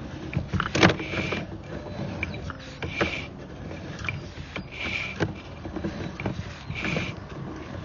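Sewer inspection camera's push cable being fed down the line, a mechanical rattling with clicks and knocks that swells about every two seconds, once per hand stroke of the cable.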